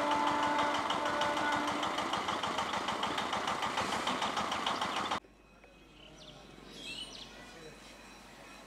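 Passenger train running past and away on the rails, a dense fast clatter of wheels with a few steady whining tones in the first couple of seconds. The sound cuts off suddenly about five seconds in, leaving quiet outdoor background.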